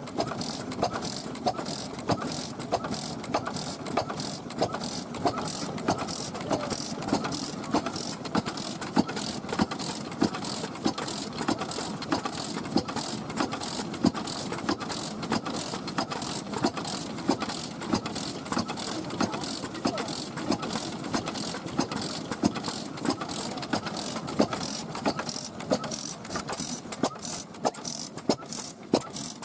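Old stationary engines (hatsudōki) running, with sharp exhaust beats at uneven spacing, a few a second, over a steady mechanical hum.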